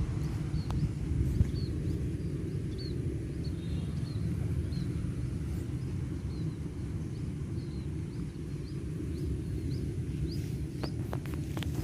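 Outdoor ambience: a steady low rumble with a small bird chirping over it, short high chirps about twice a second, and a few sharp clicks near the end.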